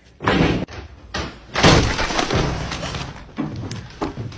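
Loud clattering crashes: a short burst about a quarter second in, then a bigger crash about one and a half seconds in that trails off.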